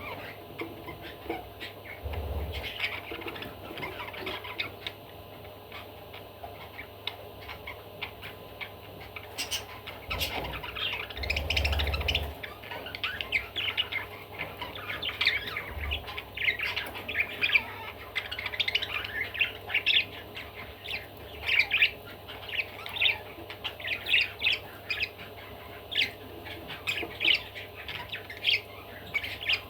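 Pet budgerigar chattering: a run of short, scratchy squawks and chirps that gets busier and more continuous in the second half. There is a brief louder low rumble near the middle.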